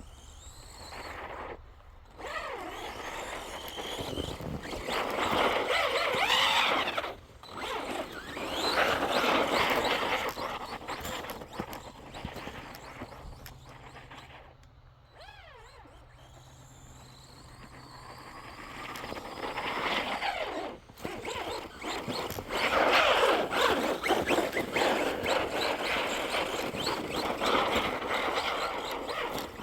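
Electric RC truck's motor whining up and down in pitch as it is driven in bursts through snow, with a quieter spell midway.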